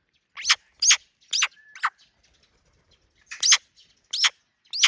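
A young bird giving short, squeaky begging calls while being hand-fed. There are about eight sharp calls, each dropping quickly in pitch, in two bursts with a short pause between.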